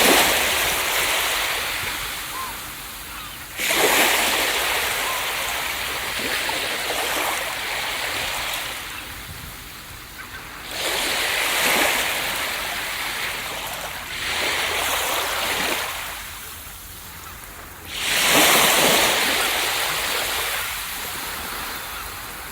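Ocean surf breaking on a beach: each wave comes in with a sudden hissing crash and then washes out slowly. Five waves break, a few seconds apart.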